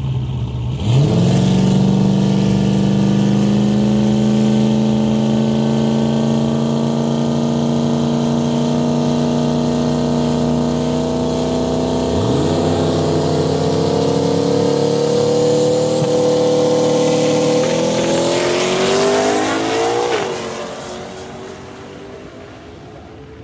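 Drag car launching hard about a second in, its engine pulling up through the gears with the pitch climbing and a break at each shift. The engine then fades away near the end.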